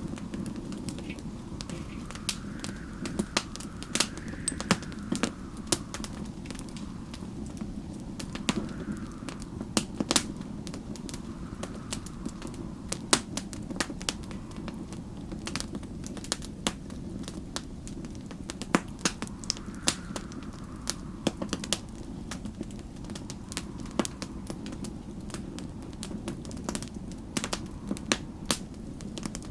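Wood fire crackling, with irregular sharp pops over a steady low rumble. Faint snowstorm wind whistles through it, its pitch swelling and falling every few seconds.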